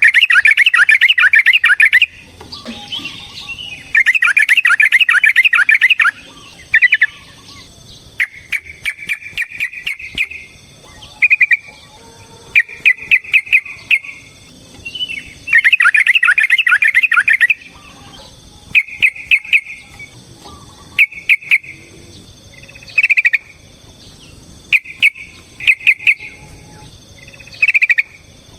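Yellow-vented bulbul singing loud, rapid, bubbly chattering phrases, some about two seconds long and others short and repeated, with sharp clicks between them.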